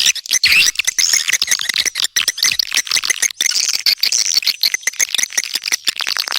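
Swiftlet calls: a loud, dense chatter of rapid chirps and twitters, many overlapping, as in a swiftlet lure recording used to call the birds into a nesting house.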